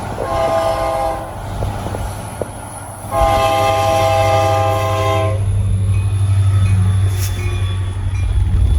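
Diesel locomotive horn sounding a short blast and then a longer one, a multi-note chord, over the steady low rumble of the locomotive's engine.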